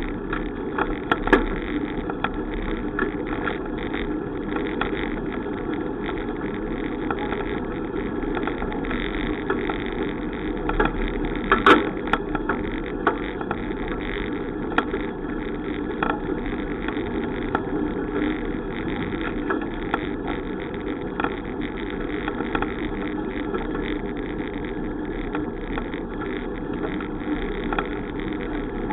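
Steady rolling noise of a bicycle ride, wind and tyre rumble, with scattered light clicks and rattles and a louder clatter about twelve seconds in.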